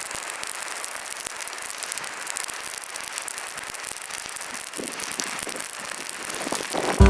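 Wood bonfire crackling, with a steady hiss and many small pops and snaps.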